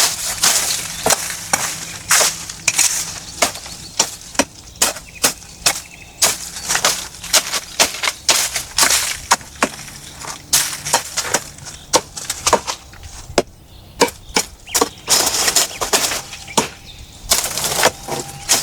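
Dry wood cracking and snapping in quick, irregular sharp cracks, several a second, over a steady hiss.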